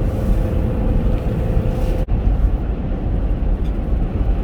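Road and engine noise inside the cabin of a Chevrolet Captiva driving on a snowy country road: a steady low rumble. A faint steady hum stops about two seconds in, with a brief drop in level at the same moment.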